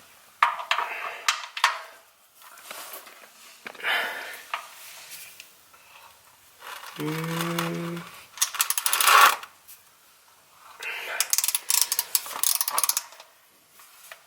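Wrench clinking and scraping against metal under a truck as it is worked around the oil pan to find and fit the drain plug, in short irregular bursts. A brief hummed grunt about seven seconds in.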